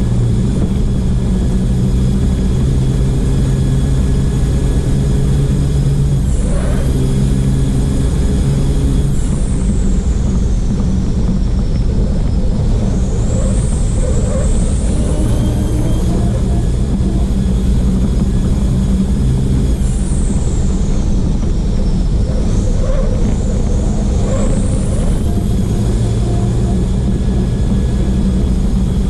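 Copa Truck race truck's diesel engine running hard at racing speed, picked up by an onboard camera, its note dipping briefly a few times. A high whine falls and rises several times over the engine.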